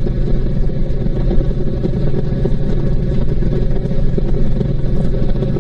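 Honda VTX1800C's 1800 cc V-twin running steadily at a cruise of about 50 mph, with an even low engine note and no change in revs.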